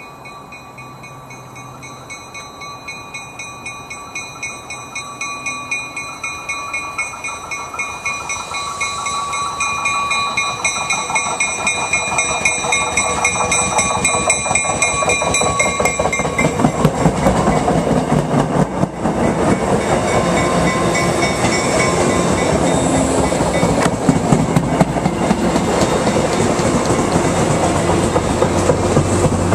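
MBTA commuter rail train of bilevel coaches, cab car leading, approaching and then running past: a high ringing whine with a regular beat builds steadily over the first half, then gives way to loud, continuous clatter of wheels on the rails as the coaches go by.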